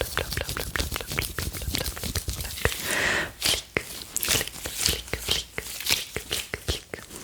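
Close-miked ASMR mouth sounds, the 'plug & flic' kind: a rapid run of sharp wet clicks and pops from lips and tongue, with brief rustles of gloved hands in between.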